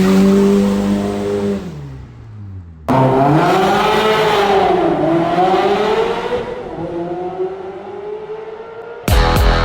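Ferrari 360's V8 through a Tubi exhaust, revs held high and then dropping away; after a sudden cut, the revs climb, dip and climb again before fading. Music starts just before the end.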